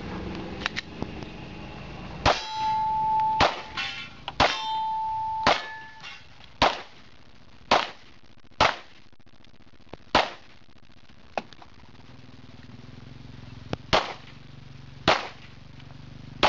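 Pistol shots fired one at a time, about a second apart, some ten in all. After two of the early shots a steel target rings with a clear, held tone.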